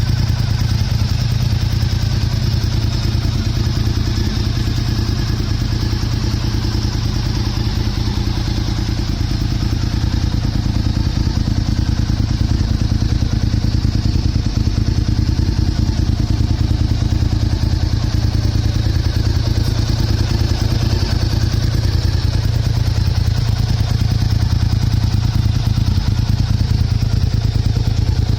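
Honda RVT1000R's 90-degree V-twin idling steadily through a LeoVince aftermarket muffler, a dense, even low exhaust beat with no revving.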